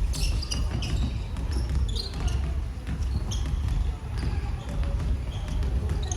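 A basketball bouncing on a gym floor, with short high squeaks and voices echoing in the hall.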